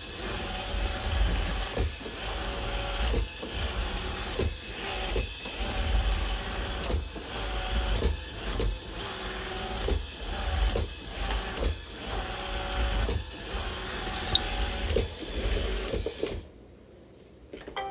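Robot vacuum running: a steady motor and brush noise with a low rumble, broken by short dips about once a second. It stops about sixteen seconds in.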